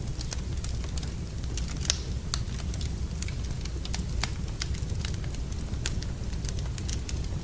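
Wood fire burning in a fireplace: a steady low rumble with irregular sharp crackles and pops of burning logs.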